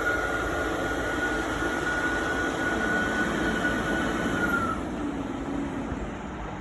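Tractor engines working on a maize silage clamp, running steadily, with a high steady whine that dips slightly and stops about four and a half seconds in; the noise eases off near the end.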